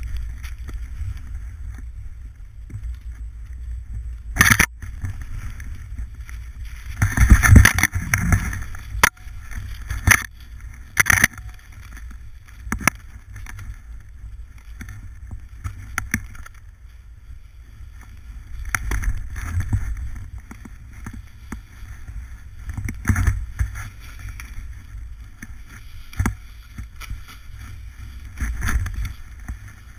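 Snowboard riding: low rumble of wind on the microphone and the board sliding over snow, with several sharp knocks and a loud scraping stretch about seven seconds in.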